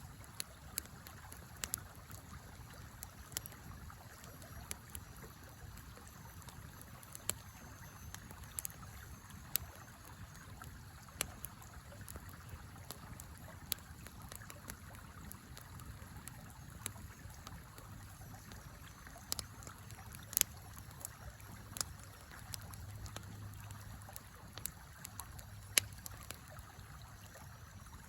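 Wood fire crackling, with irregular sharp pops, over the steady flow of a river.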